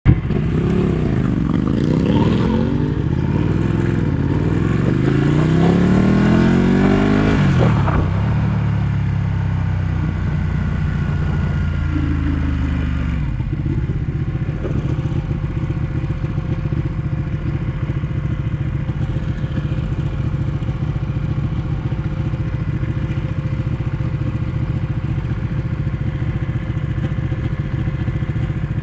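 Ducati 1199 S Panigale's Superquadro L-twin engine revving up and down for about eight seconds as the bike rides, then slowing off. From about halfway through it settles into a steady idle.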